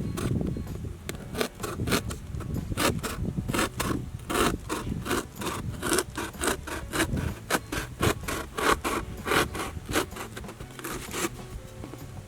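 Hand tool sawing or scraping in quick back-and-forth strokes, about three a second, stopping near the end.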